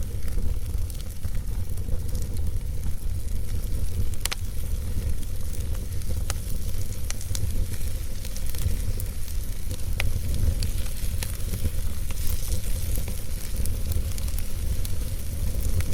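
Wood fire crackling in a fireplace: a steady low rumble of flames under fine crackle, with sharp pops every second or two.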